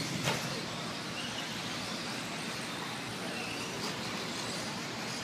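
RC stock trucks racing on the track, heard as a steady hiss of noise with a few brief faint high-pitched whines, and a single knock about a quarter second in.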